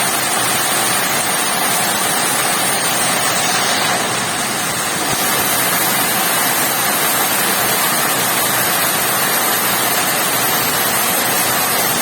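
Heavy rain falling steadily, a dense, even hiss that eases slightly about four seconds in.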